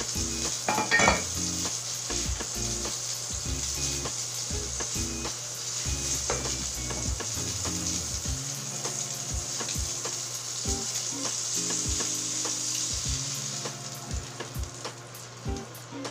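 Tuna steak sizzling in hot oil in a steel wok, a steady frying hiss with scattered light clicks; the sizzle eases off near the end.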